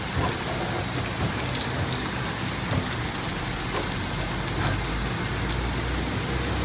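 Kimchi pancake frying in plenty of oil in a nonstick pan: a steady sizzle with scattered fine crackles.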